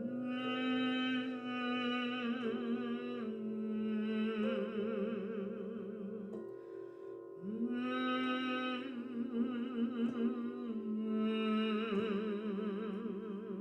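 Wordless vocal toning: a woman's voice holding long notes with vibrato in two long phrases, sliding up into the second after a pause of about a second, over a steady sustained drone.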